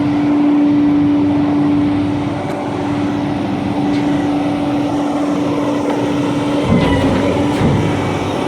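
2000 International 4900 garbage truck running, with a steady hum throughout. About seven seconds in, the hum briefly drops in pitch and two knocks follow about a second apart.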